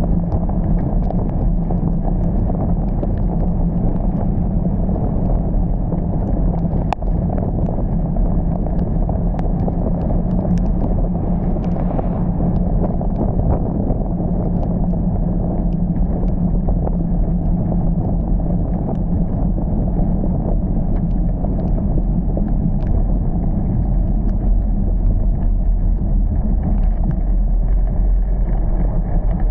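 Steady low rumble of a car driving in heavy rain, with scattered small ticks throughout.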